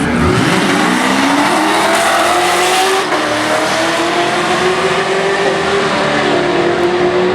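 Drag-racing car engines at full throttle down the strip, the engine note climbing slowly and steadily.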